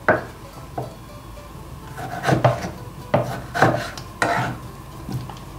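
Pestle knocking in a mortar as papaya salad is pounded and mixed: about seven irregular knocks.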